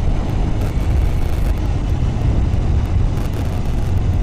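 Motorcycle on the move: a steady, loud rush of riding wind buffeting the microphone over the low engine and road rumble.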